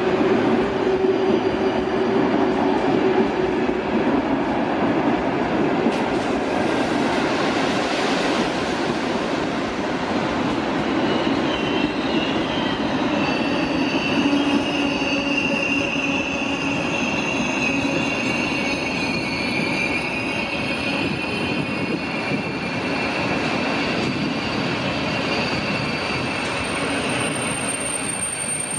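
A train moving along the platform, loud and steady, with high-pitched wheel squeal setting in about halfway and holding to the end.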